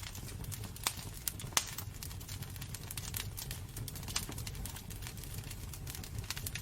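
Wood burning in a fireplace, crackling with irregular sharp pops over a steady low rumble; the loudest pops come a little under a second and about one and a half seconds in.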